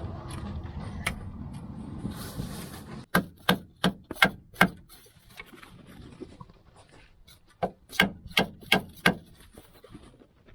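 Metal scraping and rubbing as the control arm is forced into its mount. Then two quick series of about six sharp hammer blows on the end of the lower control arm, driving it slowly into place.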